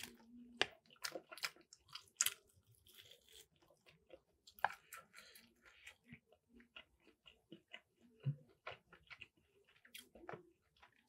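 A person chewing and gnawing at a tough piece of chicken: faint, irregular crunches and wet mouth clicks.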